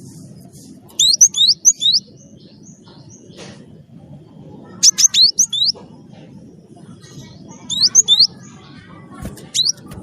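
Cinereous tit (gelatik batu) singing: short phrases of four or five quick, sharp, whistled notes that sweep up and back down in pitch, repeated about every three seconds, over a low steady background rumble.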